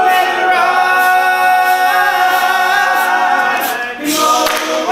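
Male a cappella group singing held chords in close harmony, with no instruments, briefly breaking off about four seconds in before the voices come back.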